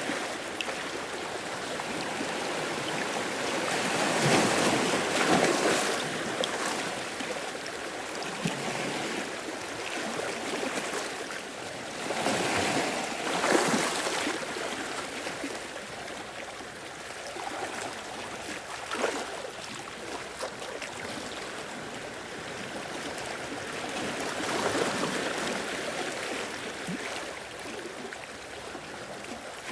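Sea waves washing in and drawing back, a steady rush that swells louder three times as waves break.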